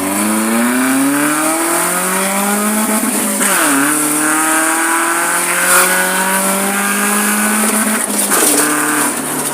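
BMW E36's engine accelerating through its newly fitted muffler instead of a straight pipe: the pitch climbs steadily, drops at a gear change about three and a half seconds in, then climbs again until another shift near the end.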